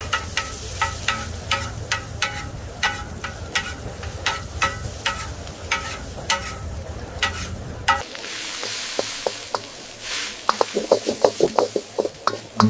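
Street-food cooking sounds: a metal utensil tapping against metal cookware in a steady run of ringing clinks, two to three a second. About eight seconds in this gives way to food sizzling on a hot surface, with a quick flurry of lighter clicks near the end.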